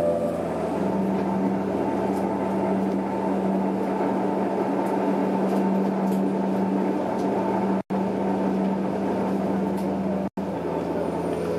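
Interior running sound of a Tokyo Metro 06 series electric train at speed: a steady rumble of wheels on rail with a constant low hum. The sound cuts out for an instant twice, about eight and ten seconds in.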